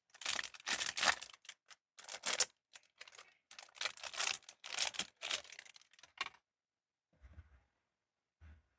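Pop Mart blind-box packaging being torn open and crinkled by hand: a quick run of rustling tears and crinkles for about six seconds, then two soft low thumps near the end.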